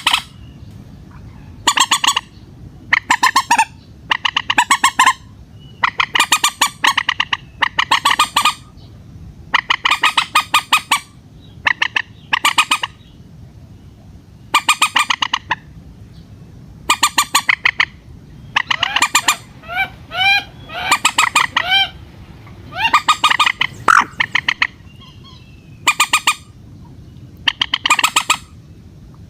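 Common moorhen calling: repeated bursts of rapid pulsed squawks, each about a second long and coming every second or two, with a run of short rising notes near the middle.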